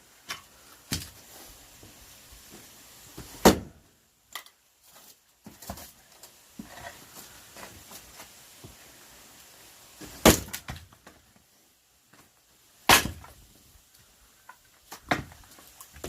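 Axe splitting firewood logs: a few separate sharp blows of the blade into wood, spaced several seconds apart. The three heaviest come about a third of the way in, past the middle, and a few seconds later, with lighter knocks between.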